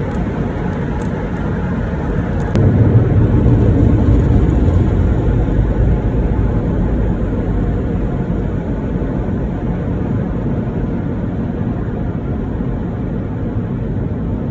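Automatic car wash air dryer blowers running, heard as a loud, steady rush of air from inside the car. It swells sharply about two and a half seconds in, then slowly eases.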